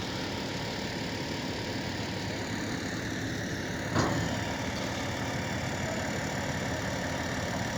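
An engine running steadily at idle, with a single sharp knock about four seconds in.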